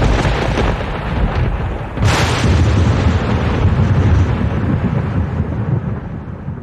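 Thunder: a loud crack about two seconds in, then a long, deep rumble that slowly dies away near the end.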